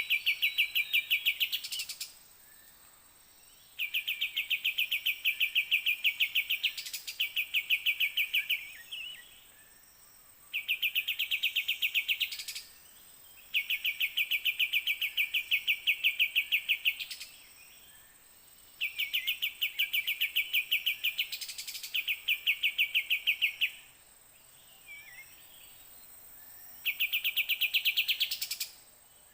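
Kapas tembak bird calling in bouts of a fast, high, pulsed rattle, each lasting two to four seconds and repeating every few seconds. Softer short chirps come in the pauses.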